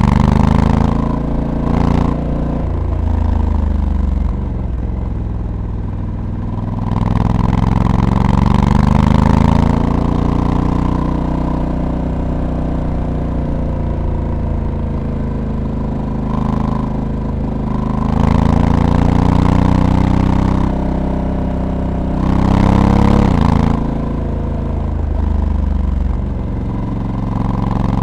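Honda Africa Twin's 1084 cc parallel-twin engine under way on a winding road. Its pitch rises and falls as the rider opens and eases the throttle through the bends, and it gets louder in several stretches of harder acceleration.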